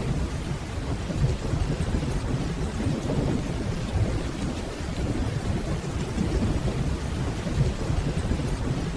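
Steady rainfall with a continuous low rumble of distant rolling thunder underneath.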